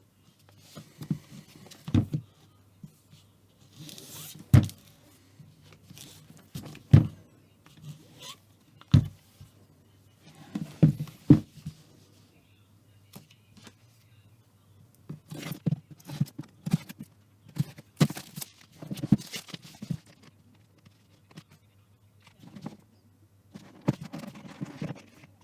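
Laptop and its packaging being handled during an unboxing: irregular knocks and thuds, several of them sharp and loud, with short bursts of rustling between them.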